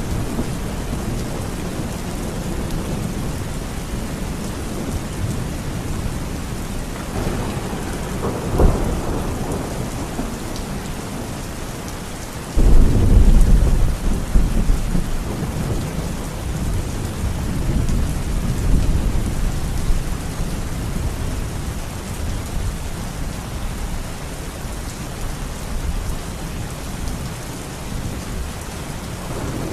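Steady heavy rain with rolling thunder. A short sharp crack comes about nine seconds in, and a loud thunderclap breaks suddenly a little before halfway, then rumbles off over the next few seconds.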